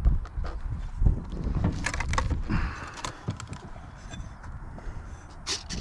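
Wind buffeting the microphone in gusts, with scattered clicks and knocks of handling.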